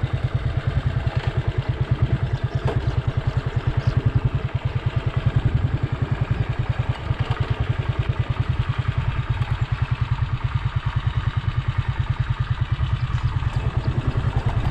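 Motorcycle engine running at a steady, even pace, a fast low putter.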